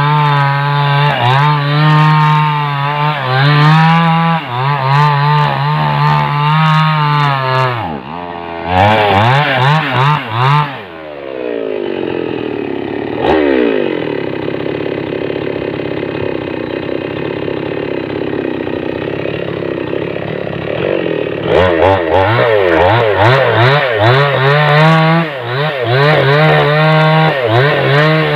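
Small two-stroke chainsaw cutting through a waterlogged driftwood log, the engine running hard and wavering in pitch as the chain bites. About eight seconds in it revs and then drops to a quieter idle for about ten seconds, before it opens up and cuts again near the end.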